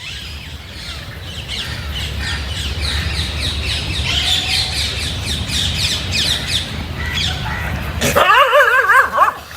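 Birds chirping rapidly in many short, high, falling notes over a low rumble, then a louder wavering squawk near the end.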